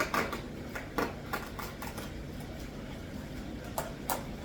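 A few light clicks and knocks from shipping containers and packaging being handled, two of them close together near the end, over the steady low hum of fish-room equipment.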